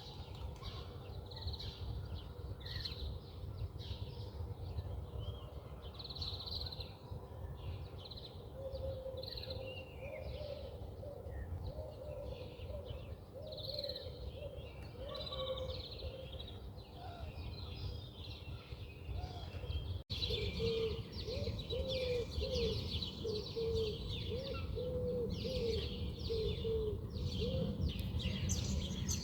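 Several birds chirping and twittering, with a lower call repeated in quick runs of short notes twice, over a steady low rumble.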